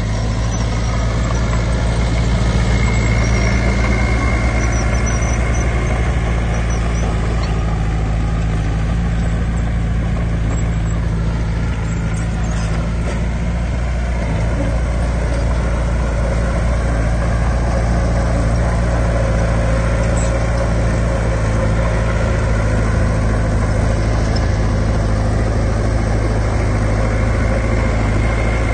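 Heavy diesel engine of earthmoving machinery running steadily with a low, even hum. It grows a little louder in the first few seconds.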